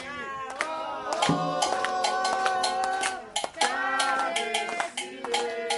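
Candomblé chant sung in Yoruba by voices, over regular sharp hand-percussion strikes.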